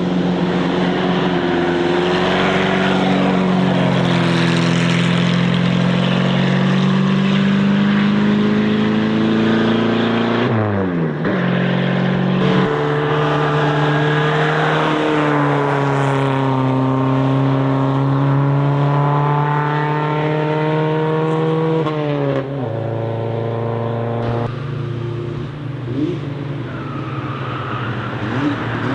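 Car engines running hard as cars drive past on a racetrack, one after another. The engine pitch rises and falls, and twice drops sharply, about a third of the way in and again about three-quarters through.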